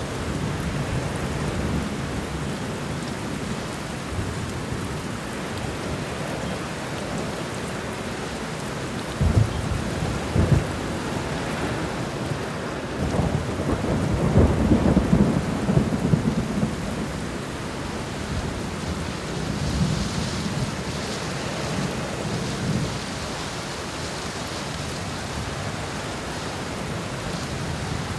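Thunderstorm: steady rain with rolling thunder. Two sharp thunder cracks come about a third of the way in, then a longer rumble swells and fades in the middle.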